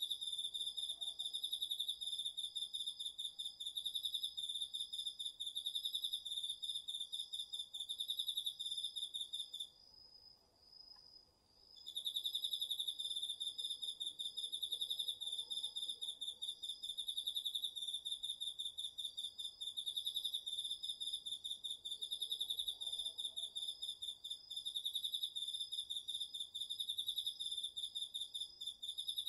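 Crickets singing: one close cricket trills steadily in fast pulses, stops for about two seconds around a third of the way in, then resumes, while a fainter, higher-pitched insect keeps up a steady pulsing song throughout.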